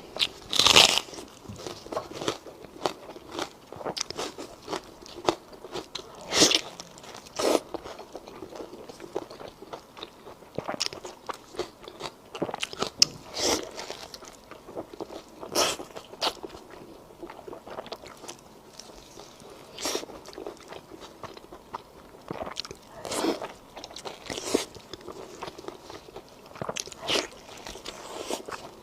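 Close-miked eating: a person biting and chewing food, with irregular crunches and wet mouth clicks, some much louder than others.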